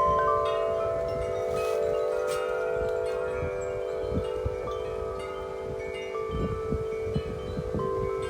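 Wind chimes ringing in gusty wind, many overlapping strikes whose tones hang on and fade into one another, with wind rumbling on the microphone underneath.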